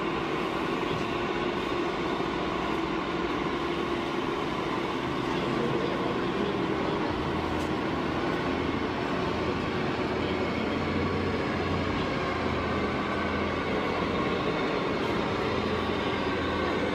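Radio-controlled model trucks or construction machines running steadily: an even mechanical rumble with a faint, slightly wavering whine from their small motors and gearboxes.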